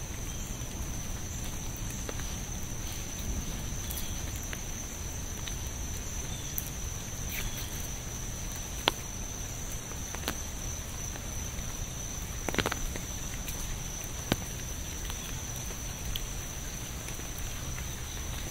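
Steady rain with a few louder single drops striking close by, over a constant high-pitched whine.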